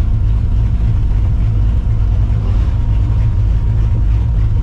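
Straight-piped, Procharged V8 of a 1999 Mustang GT, built on a 5.4-litre iron block with a big cam, running at low RPM with a steady, deep rumble and no revving.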